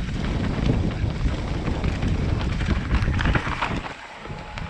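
Wind buffeting the microphone and a mountain bike rattling over rough, rooty trail on a fast descent, with scattered knocks. The noise drops away sharply near the end as the bike slows to a stop.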